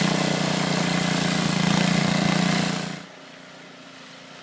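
Small gas snowblower engine running loudly and steadily, then cutting off abruptly about three seconds in, leaving only a faint low hum.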